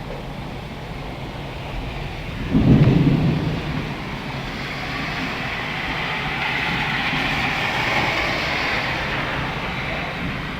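Thunder over steady rain: a sudden loud clap about two and a half seconds in, followed by a long rolling rumble that swells and slowly fades.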